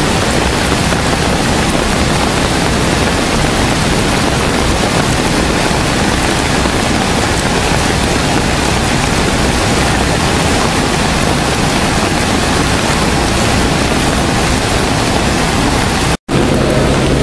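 Loud, steady rush of torrential rain and running water, an even hiss with no distinct drops or splashes. It cuts off abruptly about sixteen seconds in, and a steady low hum follows.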